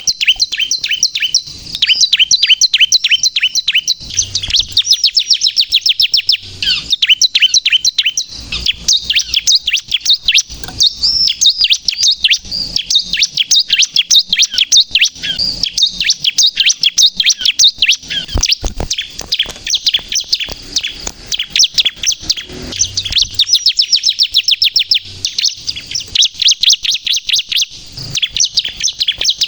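Bar-winged prinia (ciblek) singing continuously in rapid, high-pitched chirping trills, many notes a second with only brief breaks.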